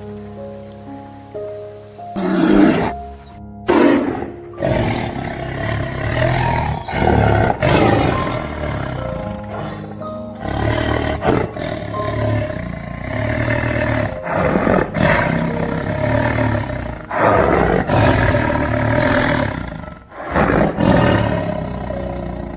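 Big cat roaring and snarling again and again over background music.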